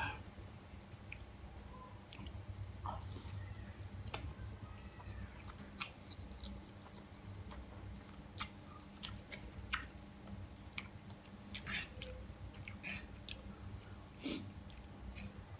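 A man chewing and eating a mouthful of fried instant noodles from a fork, with scattered small clicks and ticks through it, over a faint low steady hum.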